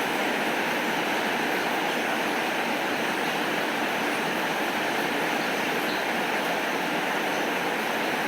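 Steady rainfall, an even hiss at a constant level with a few faint high ticks.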